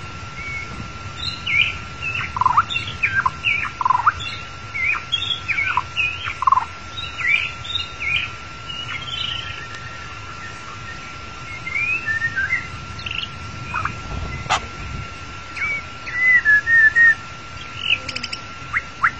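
White-rumped shama (murai batu) singing: a long run of varied short whistled notes sliding up and down, with a quick run of repeated notes near the end. A thin steady tone sounds underneath.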